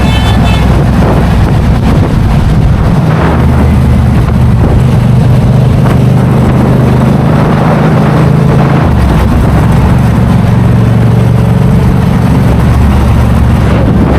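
Motorcycle engine running under way, a loud low steady drone whose pitch steps to a new level about three seconds in and again about nine seconds in.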